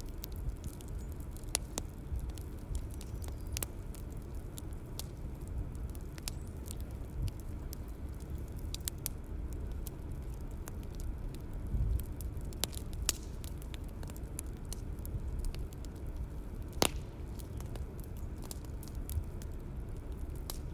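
Bonfire crackling: scattered sharp snaps and pops over a steady low rumble of burning wood, with one louder pop near the end.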